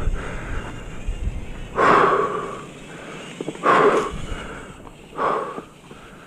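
A winded mountain biker breathing hard into the microphone, with a heavy exhale about every two seconds, three times: the sound of a rider out of energy.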